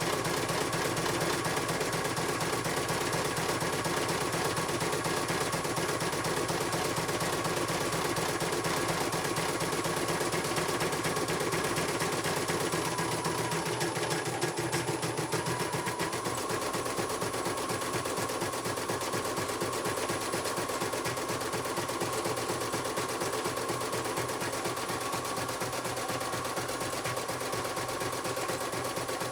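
Computerized embroidery machine stitching at speed: a fast, even rattle of the needle bar going up and down, with its running tone dipping briefly about halfway through before settling again.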